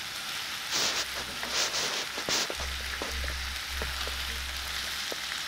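Chicken pieces and sliced onions sizzling in a frying pan, stirred with a wooden spatula and a metal spoon, with faint scraping clicks; the sizzle swells briefly a couple of times.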